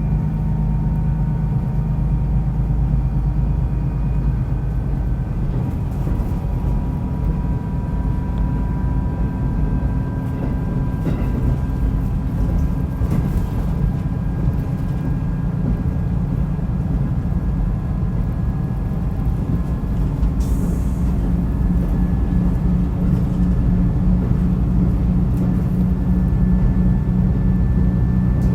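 Diesel railcar under way on a non-electrified line: a steady engine drone mixed with running noise from the wheels and rails, with a faint whine above it.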